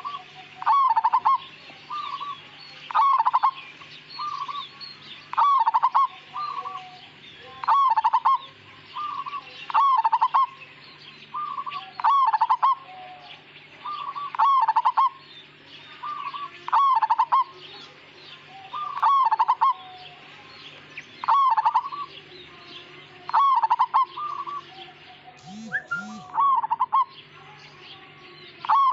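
A zebra dove (perkutut) of the local Javanese 'Majapahit' strain singing its cooing phrase over and over, about once every two seconds; each phrase is a few short notes ending in a louder one. Other small birds chirp faintly and steadily behind it.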